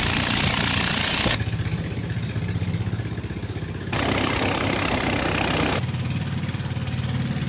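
Engine running steadily with a low, even hum. A loud hiss lies over it for the first second and a half and again for about two seconds in the middle.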